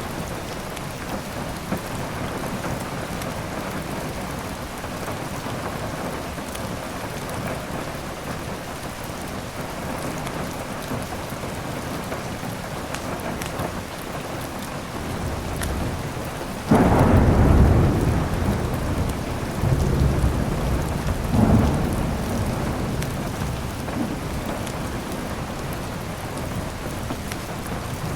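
Steady heavy rain, with a sudden loud clap of thunder about two-thirds of the way through that rumbles on in a couple of swells for several seconds and then fades back under the rain.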